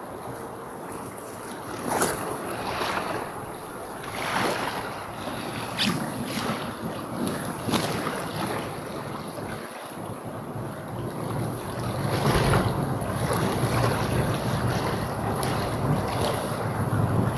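Wind buffeting the microphone in uneven gusts, a low rumble that grows stronger in the second half.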